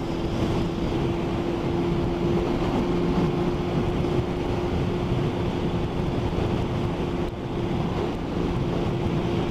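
Yamaha Thundercat's inline-four engine running at a steady motorway cruise, holding one even pitch, under a constant rush of wind on the microphone and tyre noise on the wet road.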